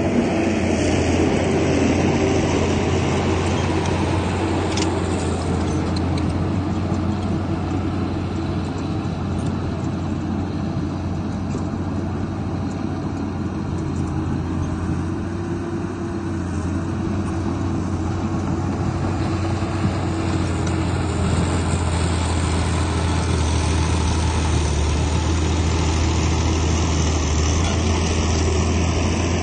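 Heavy diesel engine of a Komatsu bulldozer running steadily as it pushes soil, easing off a little about halfway through and building again.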